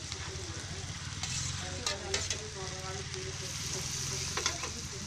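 Sliced onions and green chillies sizzling in oil in a metal kadai, stirred with a slotted metal spatula. The spatula clinks and scrapes against the pan a few times around two seconds in and once more near the end.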